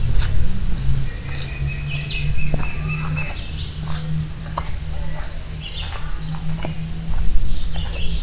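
Birds chirping and whistling in short calls, with one held whistle between about one and three seconds in, over a low steady rumble.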